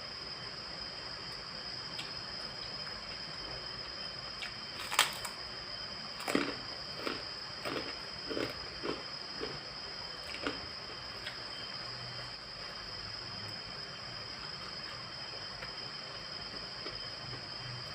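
A person eating over a steady hiss: one sharp click about five seconds in, then a run of short, moist chewing sounds at about two a second for four or five seconds, which then stop.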